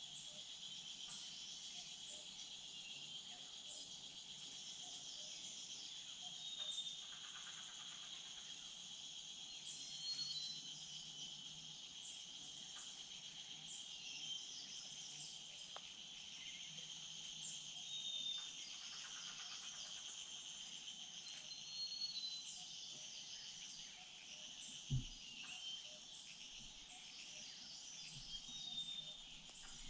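Steady high-pitched chorus of insects in forest, with short high chirps every few seconds. One sudden low thump about 25 seconds in.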